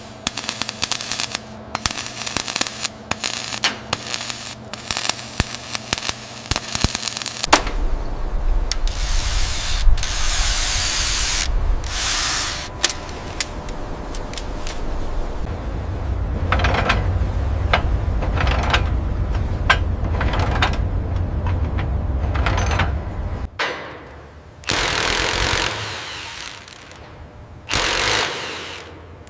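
Renovation tool sounds: a quick run of knocks and clicks for the first several seconds, then a power tool running with a steady low rumble and rising and falling surges. The tool stops about six seconds before the end, and two shorter bursts of hissing noise follow.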